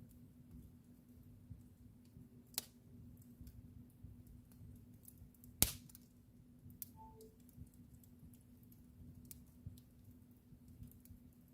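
Wood fire in a fireplace crackling: scattered small clicks and snaps with a sharp pop about two and a half seconds in and a louder one about halfway through, over a low rumble and a steady low hum.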